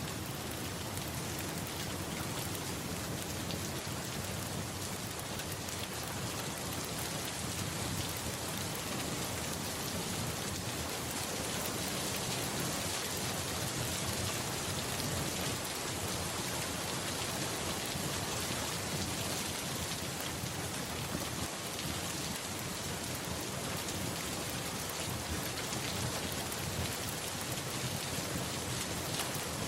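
Steady rain falling, an even continuous hiss of drops with no single loud event standing out.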